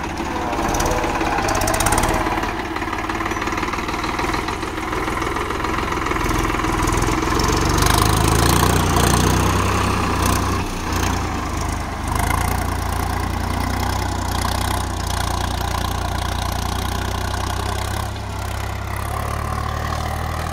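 VST Shakti Viraj 9045 tractor's diesel engine running steadily, getting a little louder about eight seconds in.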